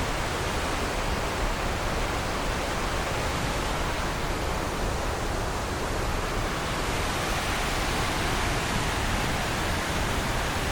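Waterfall, a steady even rush of falling water with no breaks.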